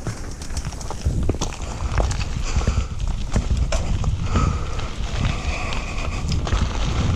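Downhill mountain bike rattling over rough trail, with many irregular clicks and knocks, under heavy wind rumble on the helmet camera's microphone.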